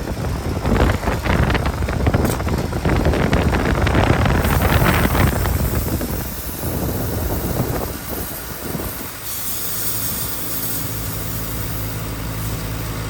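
Air-conditioning unit running during refrigerant charging. Rushing, uneven noise fills the first half, and a steady low hum settles in about two-thirds of the way through.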